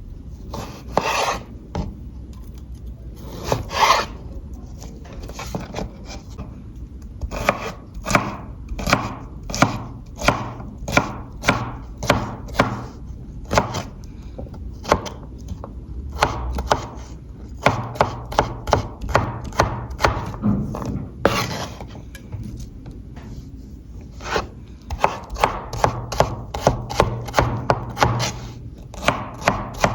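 Kitchen knife chopping food on a wooden cutting board: a long run of sharp, even knocks, about two a second, quickening to about three a second near the end, with a few longer scraping strokes near the start.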